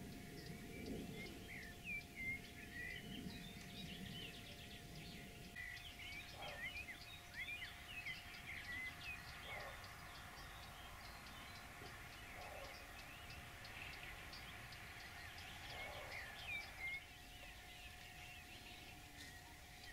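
Songbirds singing: many short chirps and whistles overlapping throughout, over a faint steady tone.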